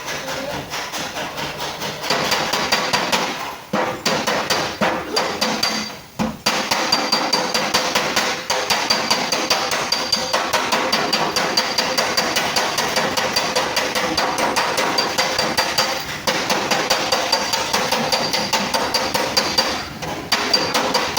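A hammer tapping rapidly and steadily on a car's sheet-metal fender panel to work out a dent, about four to five blows a second with a few short pauses. Each blow leaves a metallic ring.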